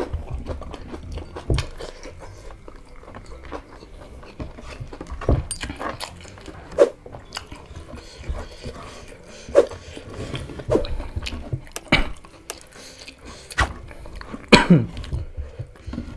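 Close-miked eating sounds of rice and crispy chicken nugget with chili sambal: chewing and wet mouth smacks, with many short sharp clicks and brief huffing breaths.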